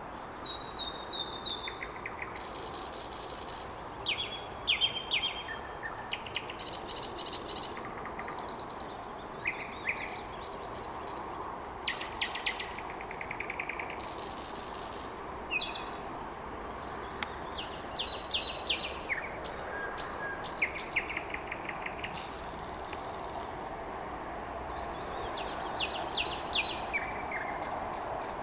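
Nightingale singing a string of varied phrases: fast repeated trills, clicking rattles and short whistles, with brief pauses between phrases. A steady background hum runs underneath.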